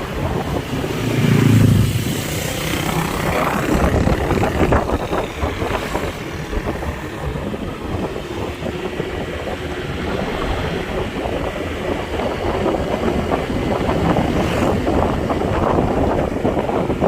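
Motorcycle ride: wind buffeting the microphone over the engine running steadily. A louder low-pitched sound swells briefly about a second in.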